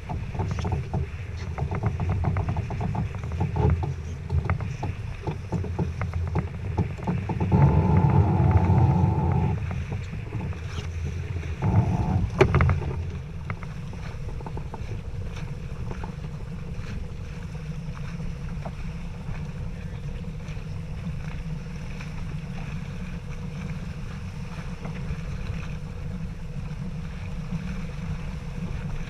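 Sailboat underway: a steady low rush of wind and water. There are louder bursts of noise about 8 and again about 12 seconds in.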